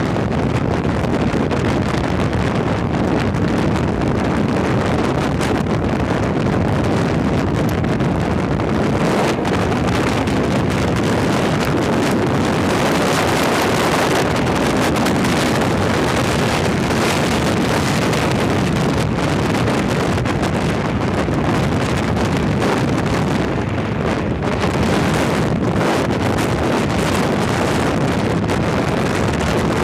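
Heavy wind buffeting the microphone of a rider at speed on a Kawasaki ZX-6R sport bike, with the motorcycle's inline-four engine running underneath.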